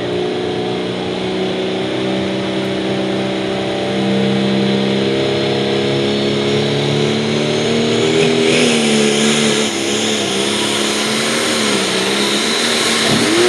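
International 1066 pulling tractor's turbocharged diesel engine running hard under load down the track. The engine note holds steady for the first half, then wavers up and down from about eight seconds in, with a quick rise and fall in pitch near the end.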